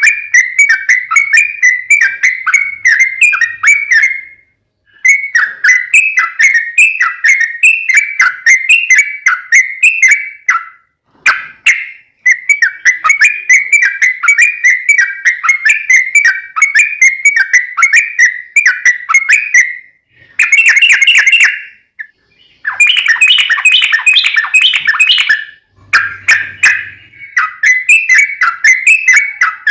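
Yellow-vented bulbul (trucuk) singing loud, long runs of rapid bubbling, warbling notes, each run several seconds long with brief pauses between. Denser, louder bursts come about two-thirds of the way through.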